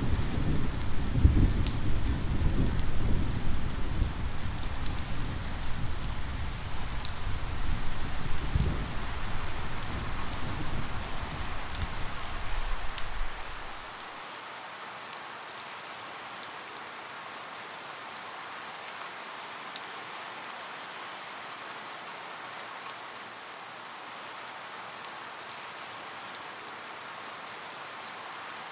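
Steady rain, an even hiss with individual drops ticking sharply. For about the first half a heavy low rumble runs under it, then cuts off abruptly and only the rain remains.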